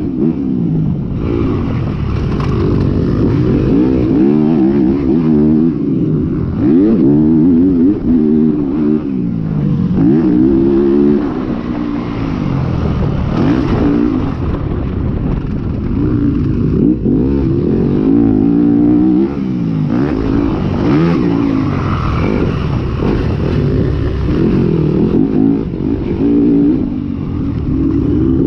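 Several motocross dirt bikes racing, their engines revving up and dropping off over and over as riders work through the gears and corners, sometimes overlapping.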